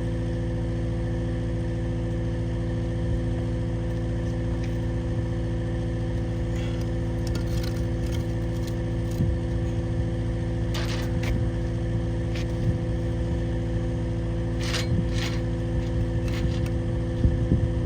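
Engine idling steadily, with scattered light clinks and scrapes and a few louder knocks near the end.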